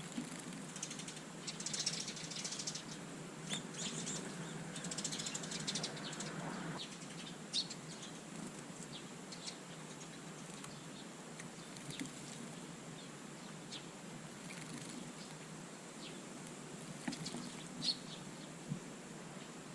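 Small garden birds bathing, with rapid wing fluttering and splashing for the first several seconds, then short high chirps now and then.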